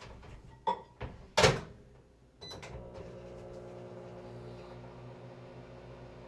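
Microwave oven door shut with a loud clack, a few short clicks from the controls, then the microwave starts running with a steady hum, heating an egg.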